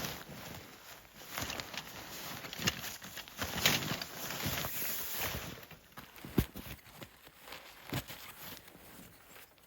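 Irregular crunching steps and handling noises in deep snow, with a couple of dull thumps in the second half.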